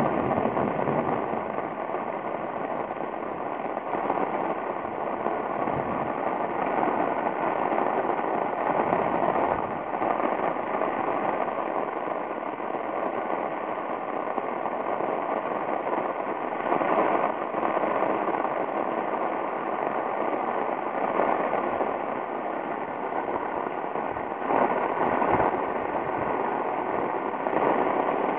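Heavy rain pouring down, a steady hiss that swells briefly now and then.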